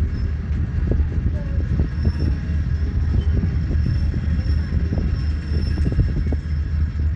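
Passenger train rolling slowly, heard from beside an open carriage window: a steady low rumble with irregular knocks from the running gear on the track.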